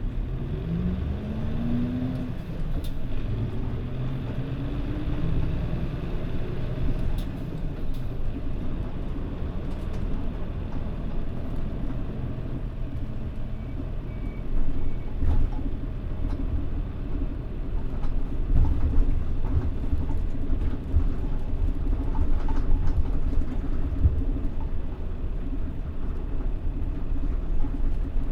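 Mitsubishi Fuso Aero Star city bus (PJ-MP35JM) heard from inside the cabin, its diesel engine revving up twice as it pulls away through the gears. It then settles into steady running with road rumble and occasional knocks.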